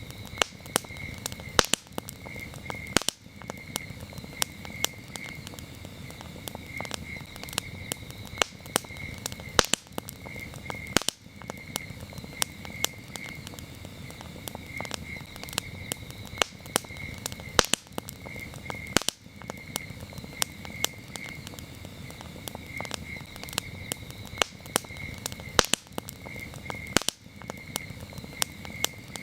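Wood campfire crackling, with frequent sharp pops over a low steady rumble of the burning fire, while crickets chirp in a steady pulsing trill.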